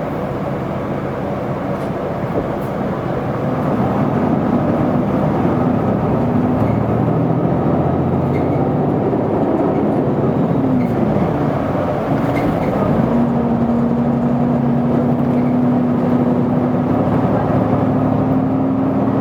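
Isuzu Erga city bus, heard from inside the cabin: its diesel engine runs under load as the bus gets under way. The engine pitch climbs and drops back a few times, as with gear changes, and then a steady tone rises slowly as the bus gathers speed.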